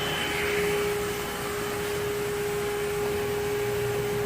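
Steady mechanical hum of a running motor or fan, with one constant whining tone.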